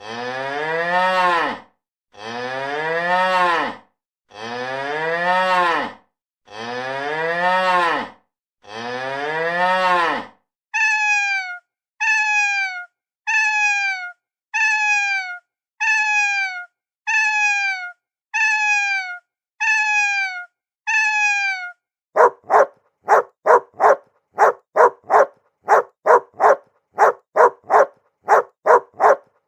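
A cow mooing five times, each moo a long call that rises then falls, the same call repeated. Then a cat meowing nine times in short falling meows, then a dog barking rapidly, about two barks a second.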